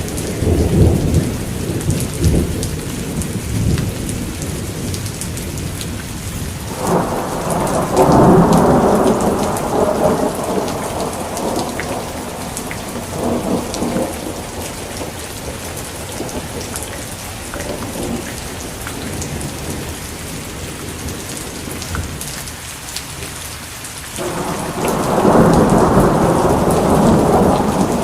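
Thunderstorm: steady heavy rain with rolling thunder rumbling over it, one roll starting about seven seconds in and a louder one near the end.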